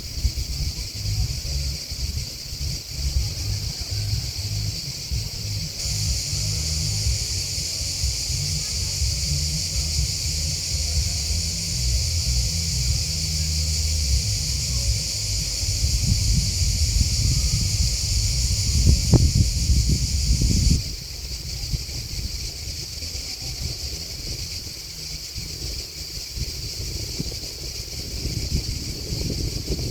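Grasshoppers and crickets chirping in a continuous high-pitched chorus that swells about six seconds in and drops back about twenty seconds in. A low wind rumble on the microphone runs under it until about the same point.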